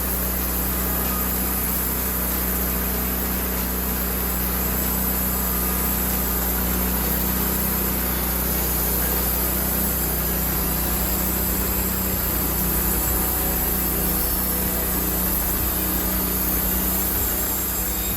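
Sawmill running steadily with a constant low engine hum and a hiss, as it mills a cedar log.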